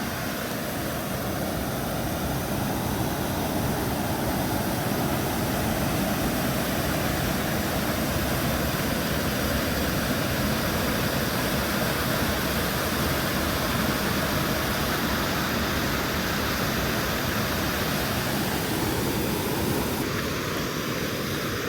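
Waterfall pouring into a creek pool, a steady, loud rushing roar of falling water.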